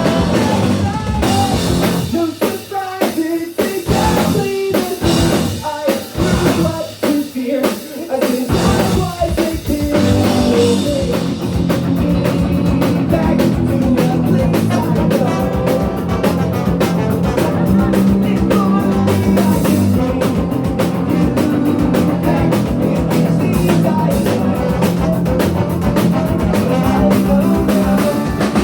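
Ska-punk band playing live with drum kit, electric guitar and bass. About two seconds in the band drops to a stop-start break of short accented hits, and the full band comes back in steadily at about ten seconds.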